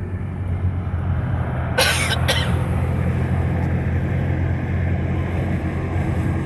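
Steady engine and road noise inside a moving car, with a short double cough about two seconds in.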